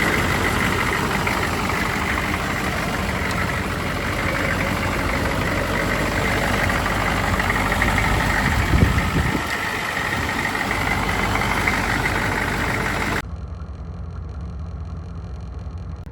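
GMC C2500's 6.5-litre turbo-diesel V8 running steadily, now firing with the new lift pump feeding it fuel. It swells briefly about nine seconds in, then drops suddenly to a quieter, lower hum near the end.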